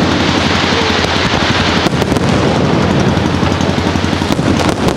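Fireworks display going off in a loud, continuous barrage of rapid bangs and crackling, the individual reports running together.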